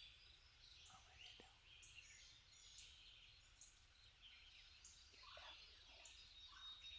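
Faint outdoor chorus of songbirds chirping and whistling, with a couple of short, lower calls near the end.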